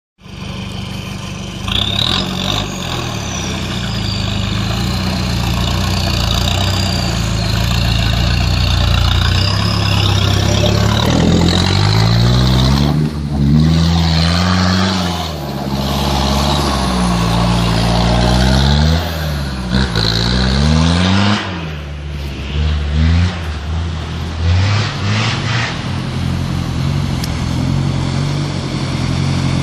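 Off-road 4x4 engine driving through a mud bog: it runs steadily at first, then from about eleven seconds in it is revved up and down again and again as the wheels spin and throw mud, and it settles back to steady running near the end.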